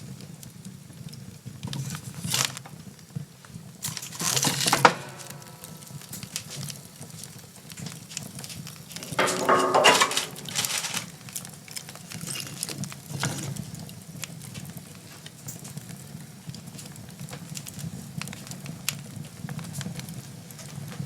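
Wood fire crackling in a fireplace as it is tended and fed with wood, with clattering knocks and scrapes about two seconds in, again around four to five seconds in, and a longer clatter around nine to eleven seconds in.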